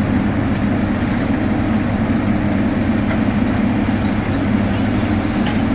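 Heavy diesel engine of road-building machinery running steadily at a constant speed, a low, even drone.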